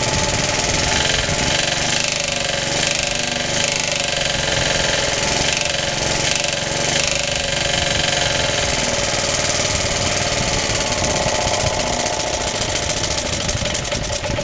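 Rebuilt Suffolk engine running steadily with a loud knock. The owner suspects the clutch or the shrouding, not the engine itself.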